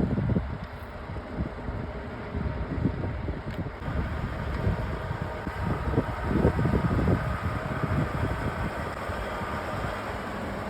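A diesel truck engine running, a steady low rumble, with gusts of wind noise on the microphone.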